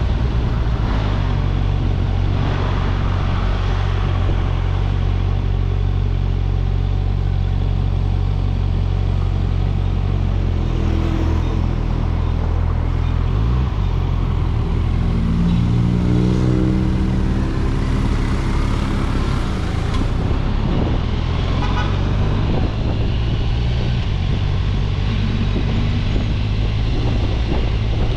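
Road traffic with engines running: a steady low engine drone throughout, and an engine revving up in rising pitch about halfway through.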